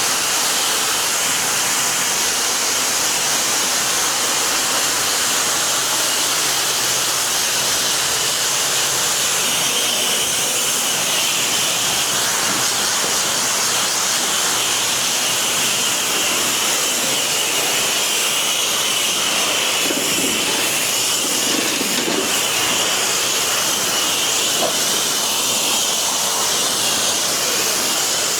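Pressure washer spray hissing steadily from the wand's nozzle as the water jet rinses a surface.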